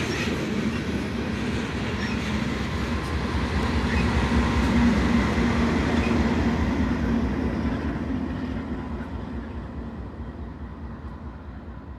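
Freight train of gondola cars rolling past, steel wheels rumbling and clicking on the rails. It is loudest about halfway through, then fades steadily as the train draws away.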